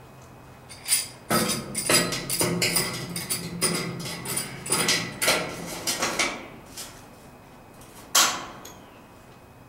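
A run of irregular knocks and clanks, densest in the first half, with one sharp knock near the end.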